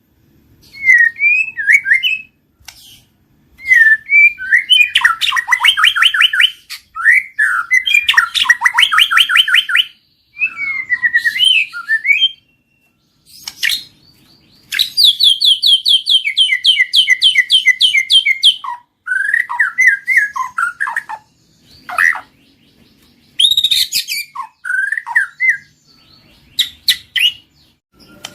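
White-rumped shama (murai batu) singing: varied whistled phrases and fast trills of rapidly repeated notes, broken by short pauses between phrases.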